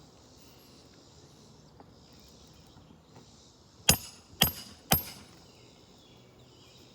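Three quick hammer blows on a roof shingle, about half a second apart, each with a short metallic ring, struck to test whether the brittle shingle cracks.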